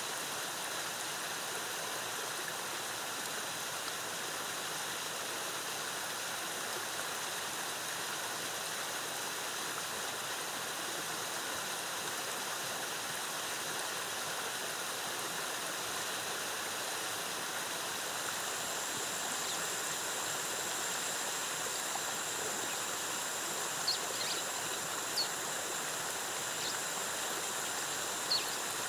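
A jungle waterfall's cascading water, rushing steadily. About two-thirds of the way through, a faint high steady tone joins it, and near the end there are a few short high chirps.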